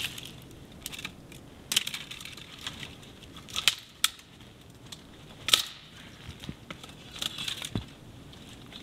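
Dry dead conifer branches snapping and breaking: a series of sharp cracks at uneven intervals with smaller twig crackles between, the loudest snaps in the middle.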